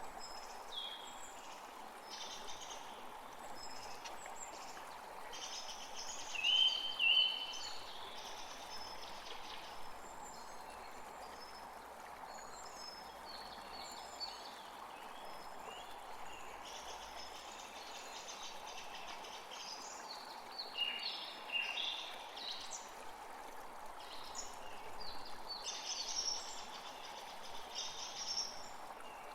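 Several birds singing and calling in short phrases and trills over a steady rushing noise. The loudest phrases come about a quarter of the way in and again past the middle.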